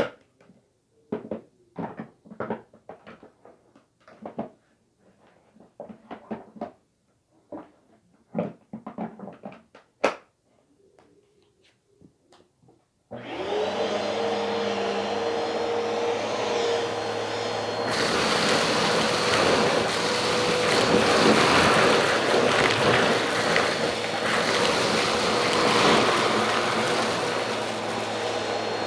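Scattered knocks and clatter, then about halfway through an electric appliance motor switches on and runs steadily with a whine, getting louder a few seconds later.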